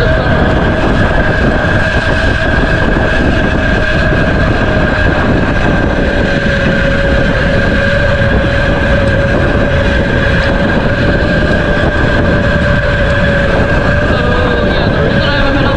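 Mini bike's small engine running steadily under way, its pitch sagging slightly about six seconds in and again near the end.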